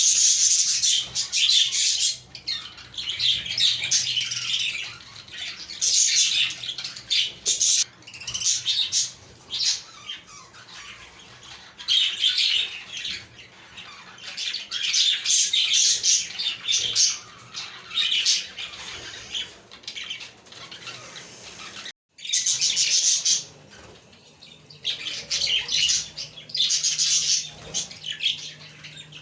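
A flock of budgerigars chattering, chirping and warbling together in bouts of a second or two, with short squawks among them.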